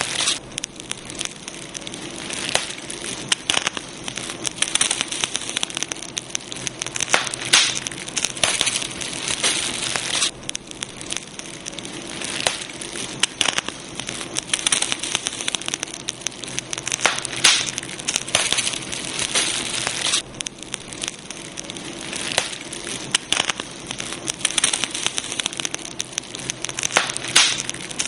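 Campfire crackling: a dense, irregular run of small snaps and pops over a steady hiss, with a few sharper pops standing out.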